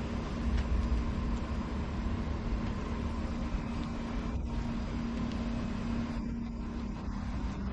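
Steady low rumble of passing motor traffic, with a faint steady hum that grows a little stronger past the middle.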